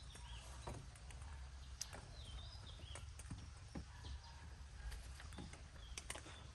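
Faint, irregular light knocks and taps, with a few short bird chirps and a low background rumble.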